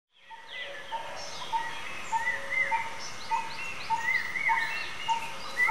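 Birds singing and calling outdoors, fading in at the start: one repeats a short, steady note a little under twice a second while others add arching and rising chirps.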